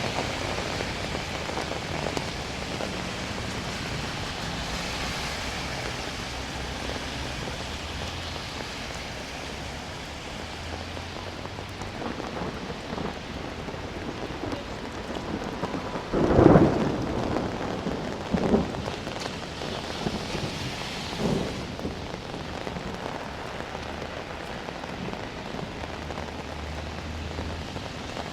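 Steady rain falling, with a sudden loud clap of thunder about sixteen seconds in, then two weaker rumbles over the next five seconds.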